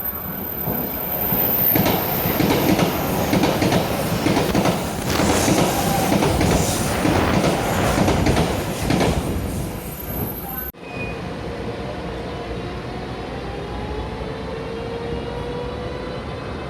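A Taroko Express tilting electric train passing at speed, its wheels clattering over the rail joints; it cuts off suddenly about two-thirds through. Then comes the steadier running noise of an EMU500 commuter train, with a slowly rising motor whine.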